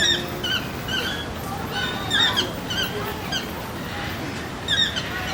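Bird chirping: short, high, hooked chirps, a few each second, in bursts with a brief pause past the middle.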